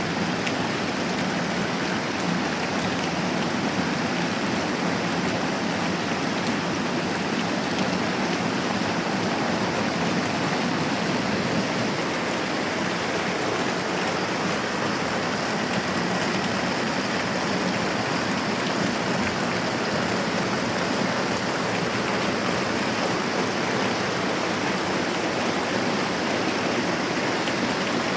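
Moderate rain falling steadily, an even hiss with no breaks or changes.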